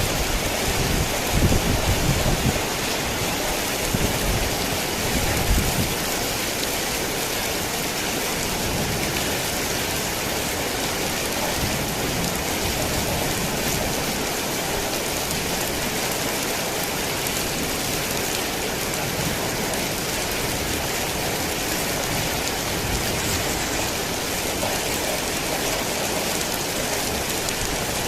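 Heavy rain falling steadily, a dense, even hiss, with a few low rumbles in the first six seconds.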